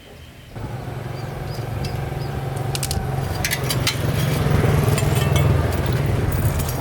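A small motorcycle engine running steadily. It starts abruptly about half a second in and gets louder toward the middle, with a few light clicks over it.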